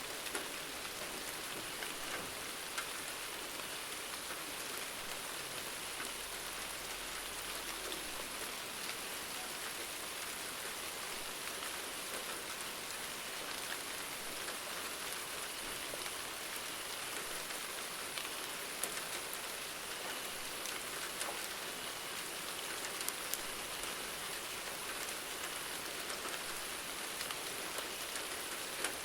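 Steady rain falling on a surface, an even hiss with scattered louder drops landing.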